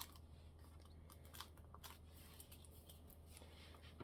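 Near silence over a steady low hum, with a few faint clicks and rustles of paper and card being handled, the clearest about a second and a half in and just before two seconds.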